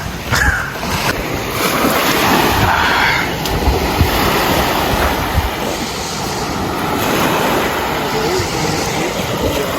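Lake waves breaking and washing onto a sand point, swelling and easing over a few seconds, with wind buffeting the microphone.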